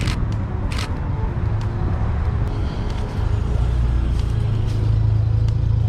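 Steady low rumble of a car engine running close by, with two sharp clicks, one at the very start and one just under a second in.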